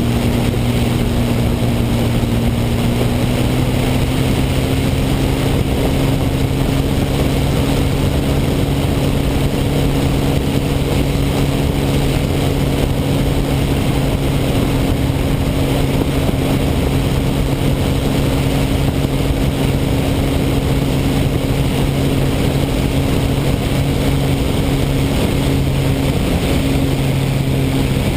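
P-51 Mustang's V-12 piston engine running with a steady, even drone; its pitch rises slightly a few seconds in, then holds.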